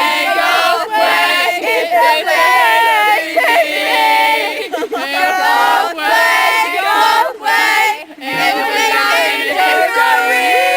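Several voices singing together, loudly, with a short break a little after the eight-second mark.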